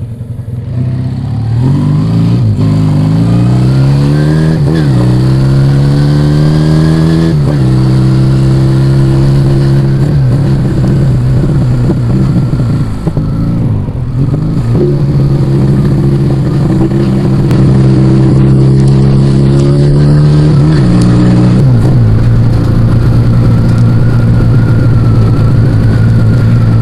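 Yamaha Vega ZR motorcycle engine through an aftermarket Arrow exhaust pulling away and accelerating. The revs rise and drop sharply several times as it shifts up through the gears, then it runs at steady revs.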